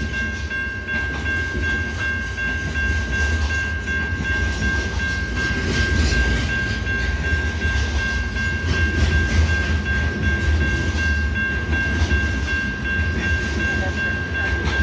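Ore cars of a slow freight train rolling past with a deep, steady rumble. A steady high-pitched tone runs over it.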